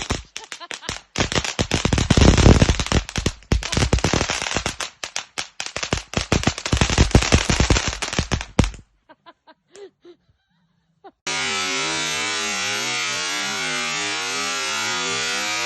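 A multi-shot firework cake firing a rapid barrage of bangs for about nine seconds, tailing off into a few faint pops. About two seconds later a loud, steady, wavering sound cuts in abruptly.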